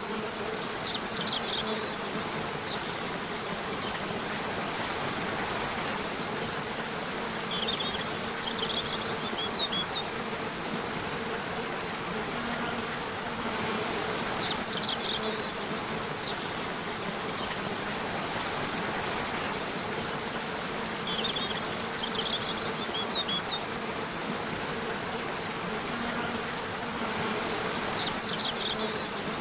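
Steady rush of flowing stream water with an insect buzzing, and clusters of short high chirps coming back about every six to seven seconds.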